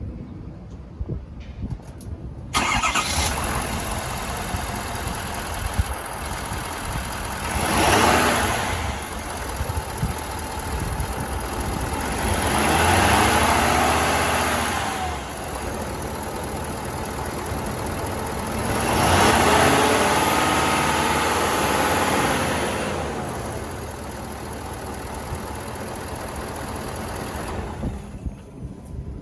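2022 Ford F650 medium-duty truck engine being cranked and catching about two and a half seconds in, then idling. It is revved three times, a short blip and then two longer revs that rise and fall, settling back to idle between them, and the sound drops away near the end.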